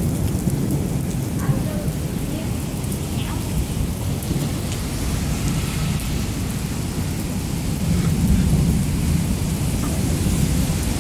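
Heavy rain falling steadily under a continuous low rumble of thunder, which swells about eight seconds in.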